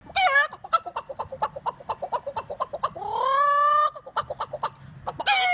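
Cat-like meowing: a falling meow, a quick run of short chirps at about five a second, a long rising meow held for about a second, more chirps, and a last falling meow near the end.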